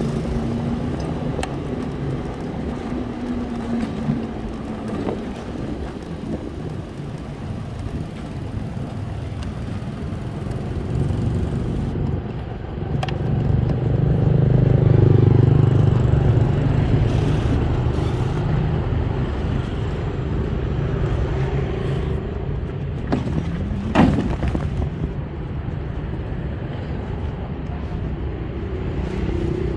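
Road traffic and small vehicle engines running, a steady low drone that swells louder about halfway through, with a brief sharp sound near the end.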